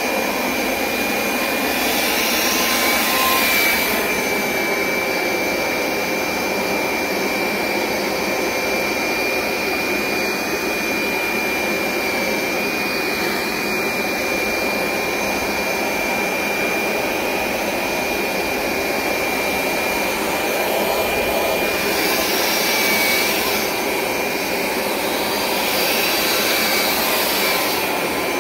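Hoover SmartWash Pet Complete carpet cleaner running steadily, a motor whine over a rush of suction noise, with brief louder surges of hiss a few seconds in and twice near the end.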